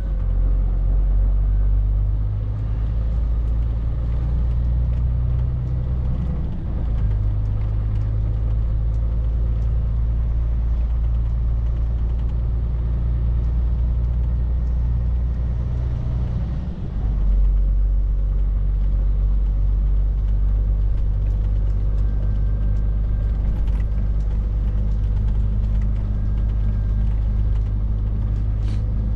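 Scania R450 lorry's 13-litre six-cylinder diesel engine running under way, a steady low drone. The engine note dips briefly and settles at a new pitch twice, about 7 and 17 seconds in, as gears change.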